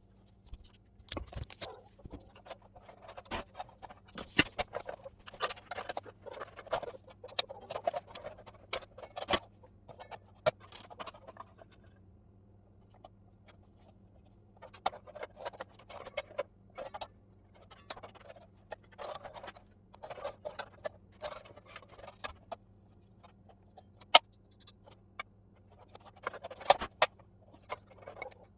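Irregular clicks, taps and light scrapes of tools and small metal and plastic parts being handled while a power tool is worked on, in clusters with a short lull partway through, over a faint steady hum.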